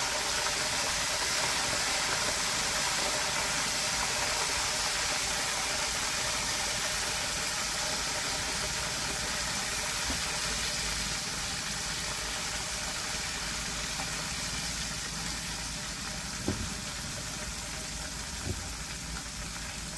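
Chicken legs coated in flour deep-frying in hot oil, a steady sizzle, with two light knocks near the end.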